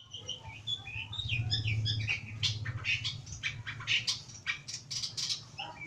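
Long-tailed shrike (pentet) singing a fast run of short chirps and scratchy notes, which grow denser and harsher about two seconds in.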